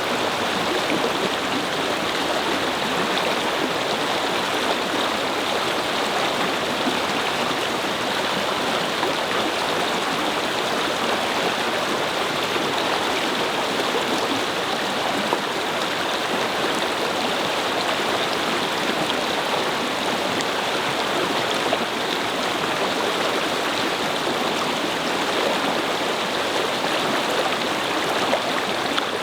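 A small brook babbling and splashing over stones, a steady even rush of flowing water.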